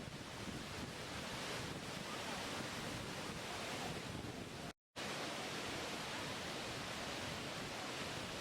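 Steady rushing of a waterfall, an even hiss of falling water with no swells, broken by a split-second gap of silence a little past halfway.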